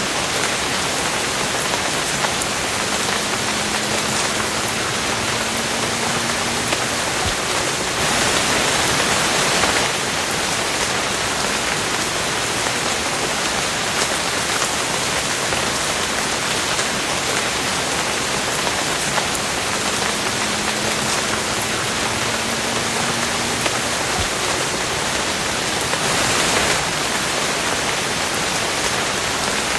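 Steady heavy rainfall, a dense even hiss of drops, swelling briefly louder twice.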